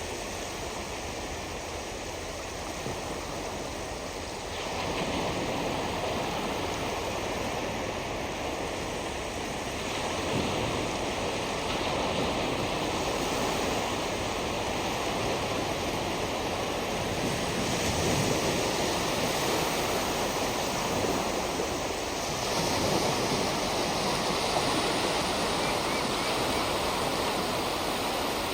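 Small waves breaking and washing onto the shore, a steady rush of surf that swells every five or six seconds as each new wave comes in.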